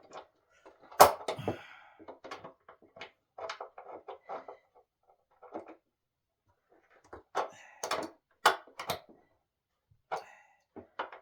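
Irregular knocks and clatters of hard objects being handled, with quiet gaps between; the loudest is a sharp knock about a second in, with another cluster of knocks near the end.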